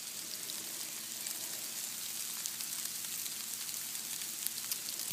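Small hail pellets and snow falling and hitting a jacket and the ground: a steady fine hiss with many tiny ticks, much like light rain.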